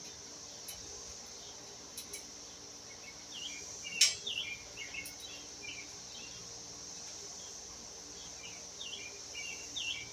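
Steady high-pitched drone of crickets and other insects, with birds chirping in short runs of notes. A single sharp click about four seconds in is the loudest sound, with a few fainter clicks earlier.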